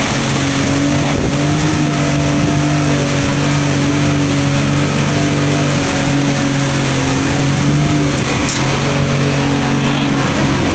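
Storm noise: a loud, steady rush of rain and wind, over a steady low hum like a running motor.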